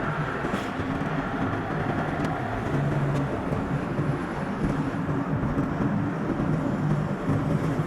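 A car's engine and road noise while driving, with short shifting engine tones over a steady rumble, played back sped up at double speed.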